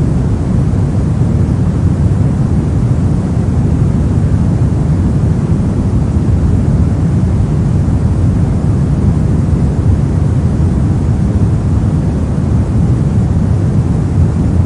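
Steady pink noise: a continuous, even hiss weighted toward the low end, with no change in level.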